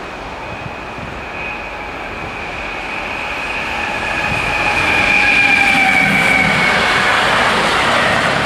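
SNCF intermodal freight train approaching and running over a level crossing, growing louder over the first few seconds. A high steady whine from the wheels and rails sinks slowly in pitch over the rumble of the wagons.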